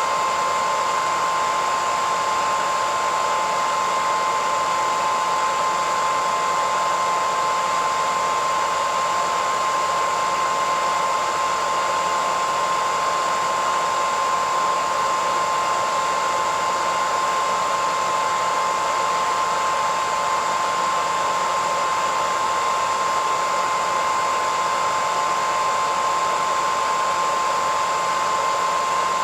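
Hair dryer running steadily: a constant rushing of air with a steady whine near the middle of the pitch range, unchanging throughout.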